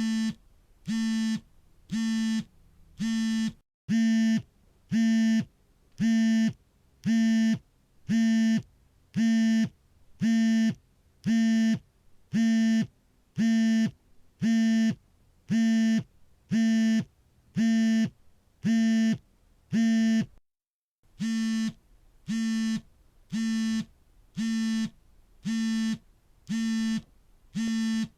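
Smartphone vibrating for an incoming call: the vibration motor buzzes in even pulses about once a second, each about half a second long. The pattern breaks off briefly twice, once early and once about two-thirds of the way through.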